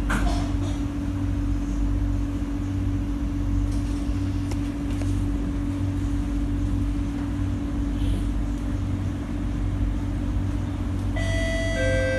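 Cabin of an SMRT C151A electric train pulling out of a station: a steady hum over a low rumble, with a knock right at the start. Near the end an on-board chime sounds, the signal that comes before a next-station announcement.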